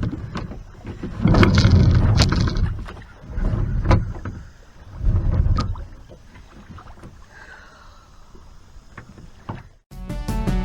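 Kayak paddling sounds: uneven bursts of water and paddle noise with sharp knocks, dying down after about six seconds. Music starts near the end.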